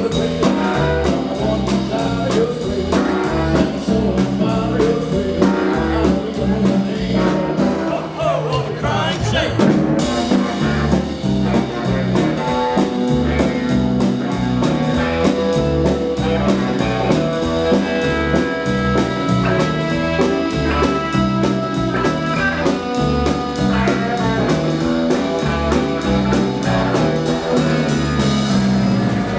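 A live band playing a blues number, with drums keeping a steady fast beat under bass, guitar and singing.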